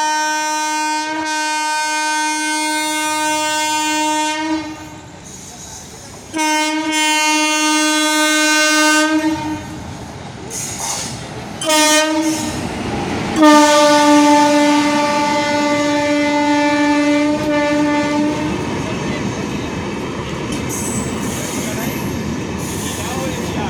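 Train horn sounding a series of blasts: a long one, a second of about three seconds, a short toot, then another long blast of about five seconds. After that the train runs past with a loud rushing rumble and wheel clatter.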